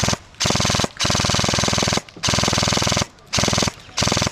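Airsoft gun firing full-auto at close range in six rapid bursts, the longest about a second, with short pauses between them.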